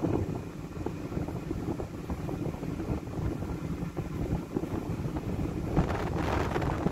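Strong wind buffeting the microphone, a low, uneven rumble, with a stronger gust rising near the end.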